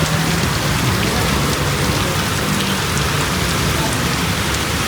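Heavy rain pouring down steadily: a dense, even hiss of rainfall with no letup.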